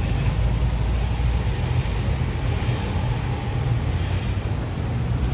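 Street traffic: a steady low engine rumble from vehicles, with tyre hiss swelling as vehicles pass, around two and a half seconds in and again near four seconds.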